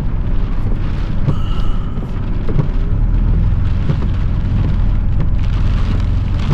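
Steady low rumble of a truck driving, heard from inside the cab, with a hiss of rain and water on the vehicle that grows toward the end.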